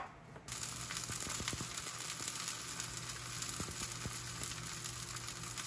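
Rounds of zucchini frying in a square pan, a steady sizzle with small crackles that starts about half a second in.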